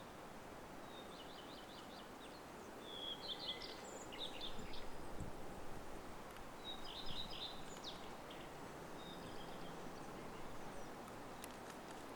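Songbirds singing short phrases of rapid high chirps and trills, several times between about one and nine seconds in, over a steady background hiss of open-air noise.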